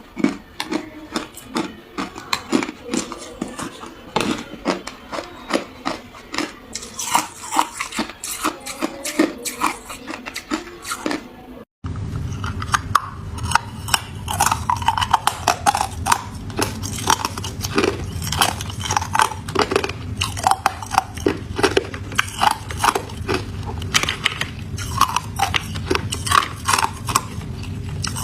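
Ice being bitten and chewed close to the microphone: a rapid, irregular run of crunches and cracks. About halfway through the sound cuts out for an instant, and after that a low steady hum runs under the crunching.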